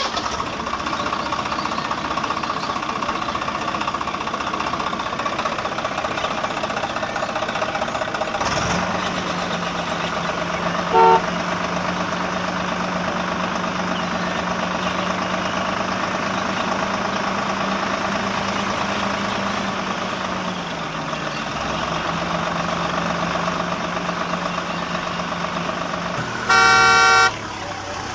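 Motor vehicle engine running steadily, with a short horn toot partway through and a loud horn honk near the end.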